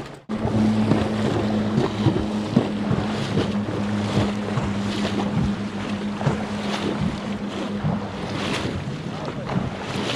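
Wind buffeting the microphone over sea surf, with a steady low motor hum for most of the time and scattered short splashes.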